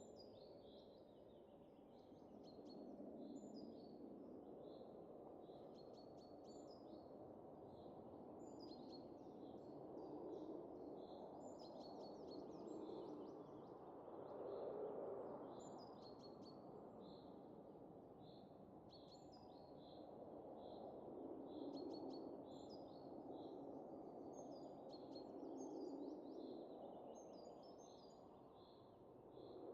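Soft wind that swells and eases every few seconds, with small birds chirping over it in short, repeated notes.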